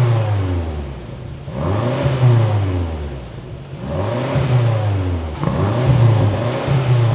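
Stock BMW M5's twin-turbo V8 revved several times in the garage, the pitch rising and falling with each rev. It runs through the factory exhaust with catalytic converters and OPF filters, which keep it muted: to the tuner it has "basically no sound".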